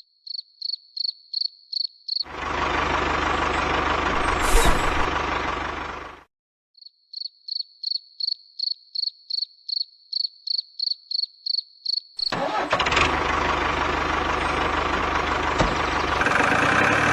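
Tractor engine running in two stretches, cut off abruptly, alternating with runs of short high-pitched chirping beeps at about four a second.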